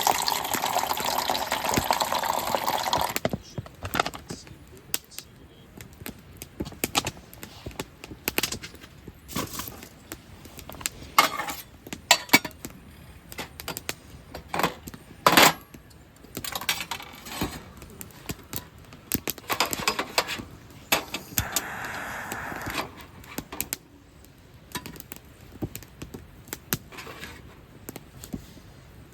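Liquid pouring for about three seconds, then scattered clinks and knocks of camp cookware and utensils being handled, with one sharper knock about halfway through.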